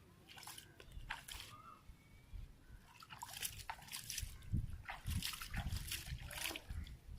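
Water sloshing and splashing in irregular small splashes, getting busier partway through, with low rumbling thumps from about four seconds in.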